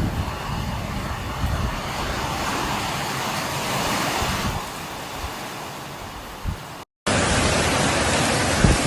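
Steady rushing noise of a heavy rainstorm, with wind buffeting the microphone. It swells about midway, cuts out for an instant near the end, then resumes with heavier low buffeting.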